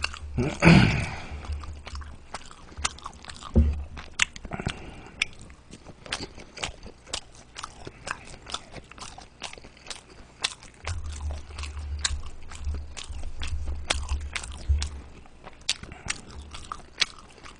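Close-miked chewing of a mouthful of dumplings: a steady run of small wet smacks and clicks of the mouth, several a second.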